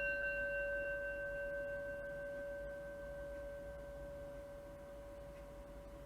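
Singing bowl chime from a meditation timer, struck just before and ringing out with a slow fade. Its higher tones die away first and the low tone lingers.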